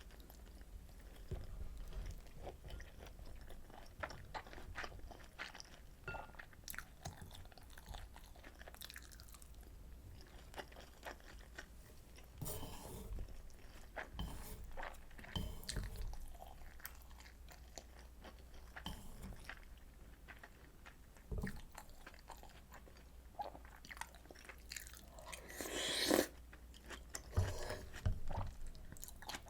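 Close-miked chewing of rolled omelet and pork kimchi stew, with many short wet mouth clicks and a few longer, louder noisy spells, the loudest near the end.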